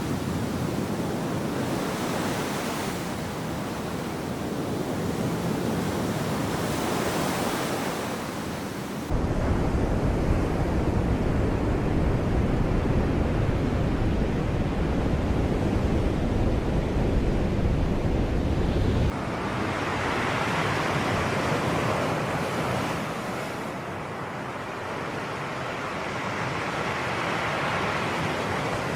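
Sea waves washing onto the shore in a steady rush that swells and eases. About a third of the way in, a low wind rumble on the microphone sets in suddenly and cuts off about ten seconds later.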